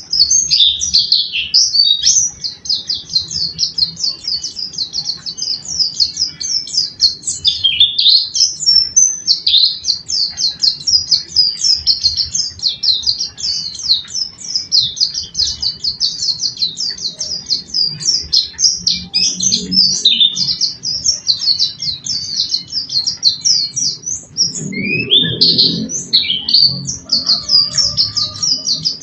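Small songbird singing a long, unbroken run of fast, high twittering chirps. Near the end there are a few lower swooping notes, and a low rumble swells briefly twice.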